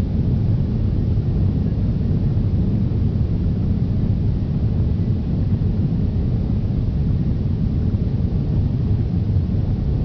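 Steady low rumble of a four-engine Airbus A340's jet engines and rushing air, heard inside the passenger cabin during takeoff.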